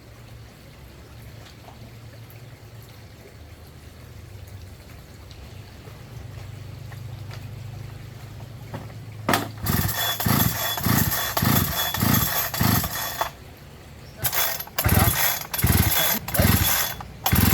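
A low steady hum, then two runs of quick repeated rasping strokes about two a second, typical of a chainsaw's starter cord being pulled again and again while the Husqvarna 365's two-stroke engine turns over without catching: a saw that won't start.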